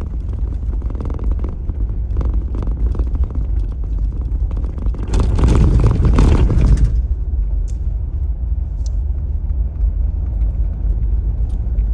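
Car driving on a rural road, heard from inside the cabin: a steady low road rumble with a rough, rattling texture. It grows louder and harsher for a couple of seconds about halfway through.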